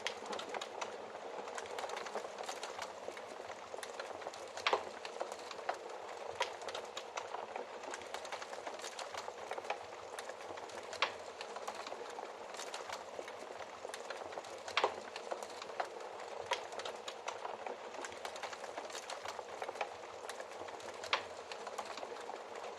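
Wood fire crackling in a fireplace: a steady hiss of small crackles with a sharper pop every few seconds.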